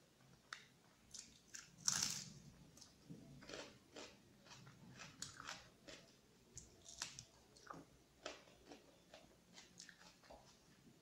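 Close-miked chewing of rice and chicken curry eaten by hand: a string of short, wet clicks and small crunches, loudest about two seconds in.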